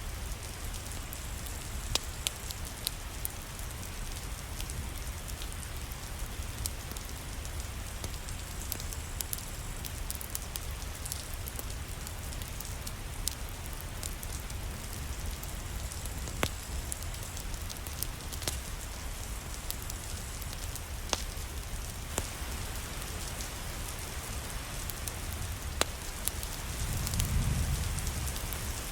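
Steady rain with scattered sharp crackles and pops from a wood fire. A low rumble swells briefly near the end.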